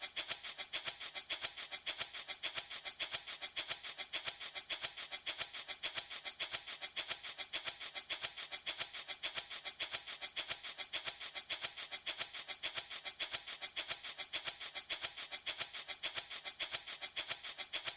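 Handmade baby rattle shaken in a steady, even rhythm, a bright, hissy rattle of small pellets with each shake landing evenly.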